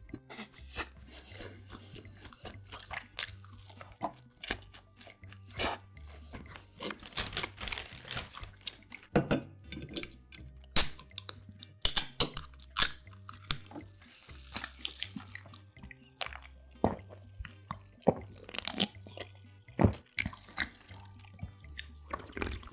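Close-miked eating sounds: chewing and biting into a sandwich, then partway through a drink can's ring-pull being lifted and opened, with soft background music underneath.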